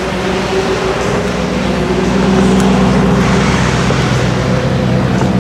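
Engines of a Lamborghini Urus (twin-turbo V8) and a Toyota GR Supra running at idle as the cars creep forward: a steady deep hum with no revving, a little louder about two seconds in.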